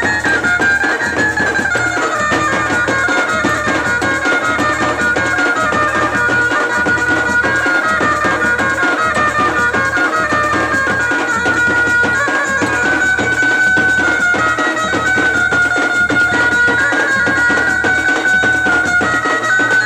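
Traditional Indian folk music: a high, reedy wind instrument holds a long, wavering melody over a steady, regular drum beat.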